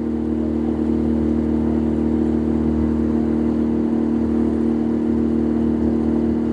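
Small boat's engine running steadily at cruising speed, a constant droning hum.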